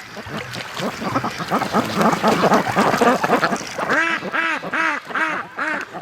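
A flock of white Pekin ducks quacking, with many short calls overlapping. From about four seconds in, one duck gives a loud run of evenly spaced quacks, about three a second.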